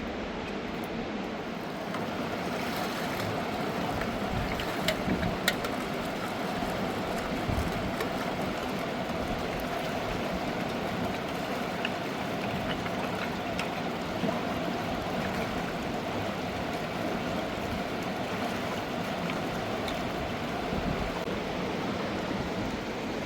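Mountain river water rushing steadily, with a few short sharp knocks about five seconds in.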